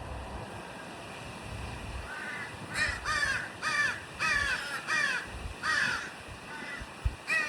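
Crow cawing, a run of about eight short harsh caws starting about two seconds in.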